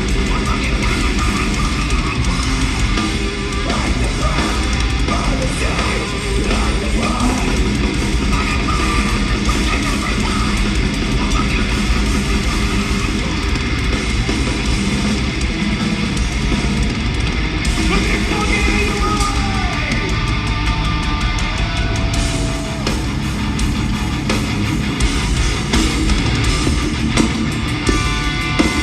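Live heavy-metal band playing loud, with distorted electric guitars, bass and drums; a guitar line bends in pitch past the middle.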